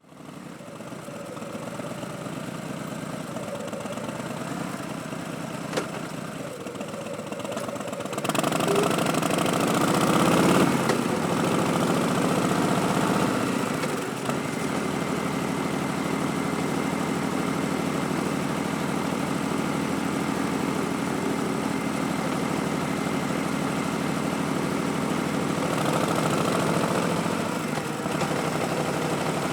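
Harley-Davidson Street Bob's 45-degree V-twin running through Vance & Hines Twin Slash slip-on exhausts, at first settled and steady like an idle. A little over eight seconds in it gets noticeably louder and busier, then settles into a steady run.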